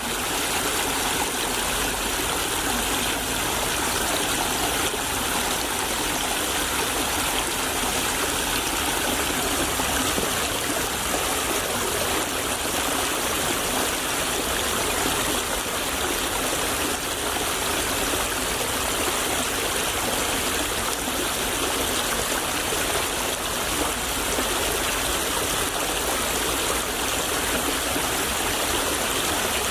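Small stream flowing over rocks, a steady babbling and trickling of water.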